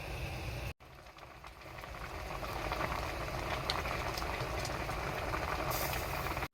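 Sea water sloshing and splashing at high tide, a steady rushing noise that builds up over the first couple of seconds.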